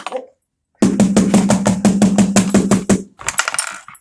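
A small percussion toy beaten rapidly, about nine strikes a second for a little over two seconds, each strike with a low drum tone. A short jingling rattle follows near the end.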